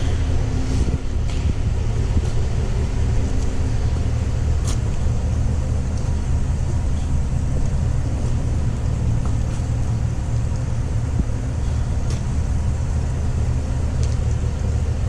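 Exhaust of a 6.2-litre V8 idling steadily, heard at its quad exhaust tips: a low, even rumble.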